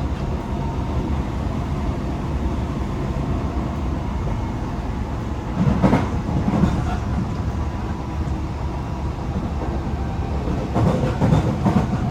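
Tokyo Metro 18000 series electric train running at speed, heard from inside the car: a steady rumble from the wheels and running gear. Two louder bursts of clickety-clack come as the wheels cross track joints, about halfway through and again near the end.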